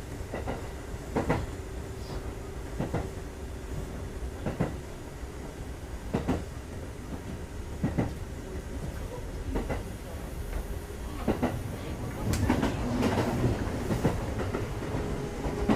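Kintetsu 2430 series electric train running, heard from on board. Its wheels knock over rail joints about every second and a half to two seconds over a steady rumble. The noise grows rougher and busier near the end.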